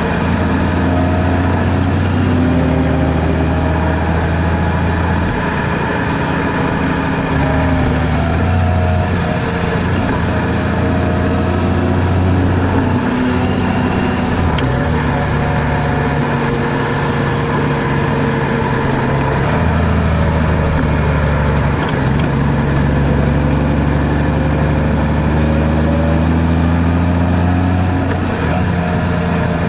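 Car engine and road noise while driving, the engine note rising and falling with speed and gear changes.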